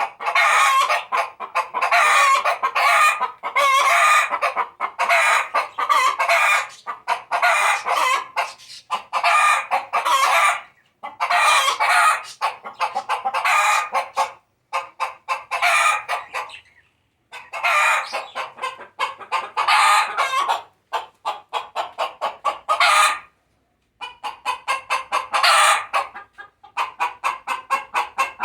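Hen cackling loudly in bouts of rapid, repeated clucks with short pauses between them: the laying song a hen gives around laying an egg.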